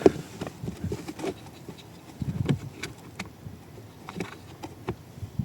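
Scattered small clicks and taps of plastic parts being handled by hand under a car dashboard, as a heater flap actuator and its electrical connector are worked into place.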